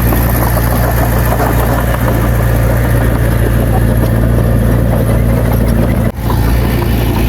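Diesel engine of heavy earthmoving machinery running steadily, with a brief sharp dip in the sound about six seconds in.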